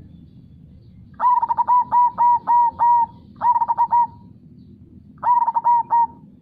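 A zebra dove (perkutut) singing its cooing song in three bouts: a run of quick repeated clear notes, then two shorter phrases. Underneath is a low, steady rush of river water.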